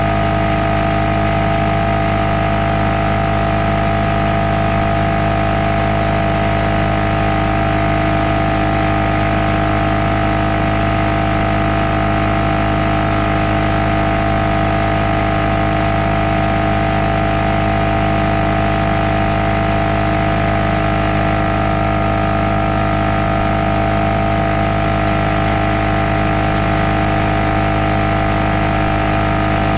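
Porter Cable pancake air compressor's motor and pump running steadily with a loud, constant hum. The compressor is not building any pressure.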